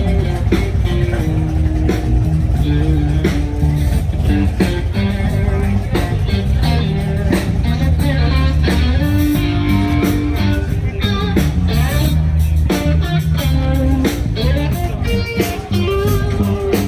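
Live band music with electric guitar, bass and drums playing a steady beat.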